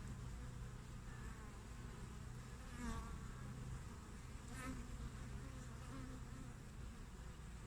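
Honeybees (Apis mellifera) buzzing at a hive entrance: a steady hum of many bees in flight, with two louder, closer buzzes about three seconds in and again a second and a half later.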